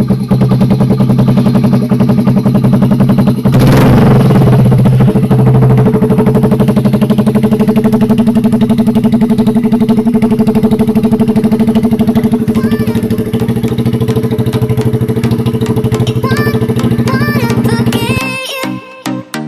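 Honda Magna 50's small single-cylinder engine running steadily through a loud aftermarket muffler. It gives a brief throttle blip about four seconds in, and the engine sound cuts off near the end.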